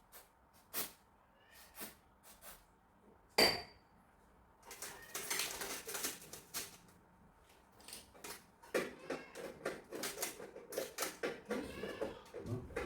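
Hard objects being handled: a few separate clicks and knocks, then one sharp clink with a short ring about three seconds in. From about five seconds on there is busy, continuous clattering.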